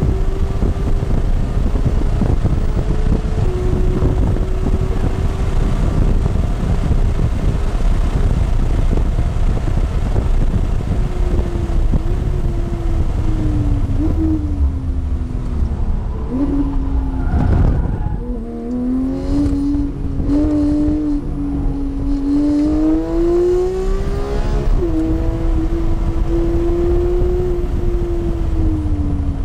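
Porsche engine heard from inside the cabin at track speed under heavy road and wind roar. The engine note falls and bends through a downshift and braking around the middle, then picks up again and holds steady.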